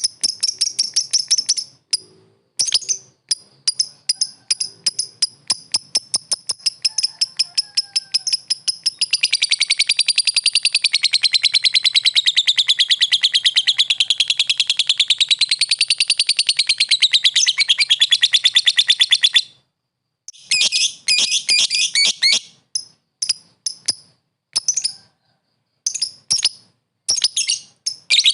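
Lovebird ngekek: fast, sharp chirps repeated many times a second, running into one long unbroken chattering trill of about ten seconds that wavers up and down in pitch and cuts off suddenly, then short bursts of chirps.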